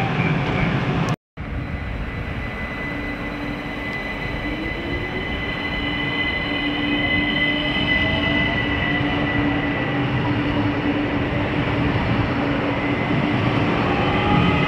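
Bombardier Talent motor train pulling out and running past close by: a steady rumble of wheels and drive, with tones from the drive rising in pitch as it gathers speed and a steady high whine above them. The sound drops out briefly about a second in.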